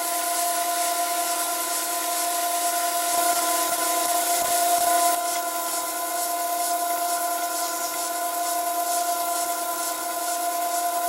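Lathe machining steel: a steady whine made of several held tones over a hiss of cutting, the hiss shifting slightly about halfway through.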